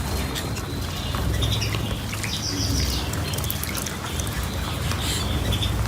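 Small cage birds chirping and calling in short, scattered notes, over a steady low rumble.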